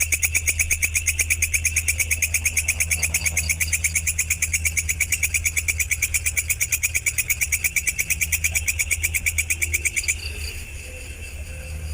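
A songbird's rapid, evenly pulsed chirping trill, high and many notes a second, played back as a bird-training recording over a steady low hum. It cuts off abruptly about ten seconds in, leaving fainter, sparser sounds.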